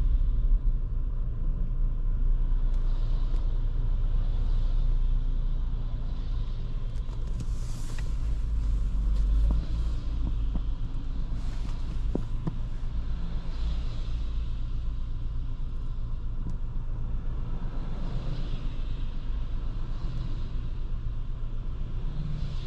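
Road noise and engine of a 2023 Škoda Kamiq 1.0 TSI, a three-cylinder turbo petrol, heard from the driver's seat while driving: a steady low rumble with a few swells of hiss.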